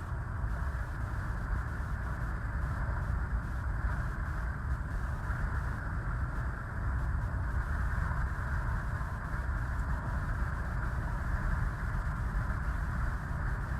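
Steady road and wind noise of a car being driven, heard from inside the cabin, with a strong low rumble and no breaks.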